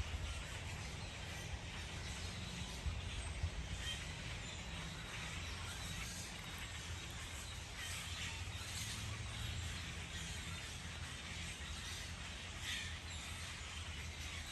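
Faint, scattered short bird chirps over a steady low outdoor rumble.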